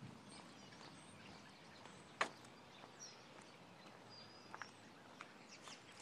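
Faint, sparse bird chirps over a quiet outdoor background, with one sharp click about two seconds in and soft footsteps starting near the end.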